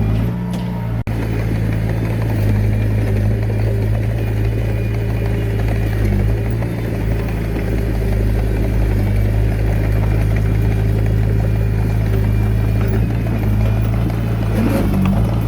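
Komatsu D21A mini bulldozer's diesel engine running steadily under work, with a brief break in the sound about a second in.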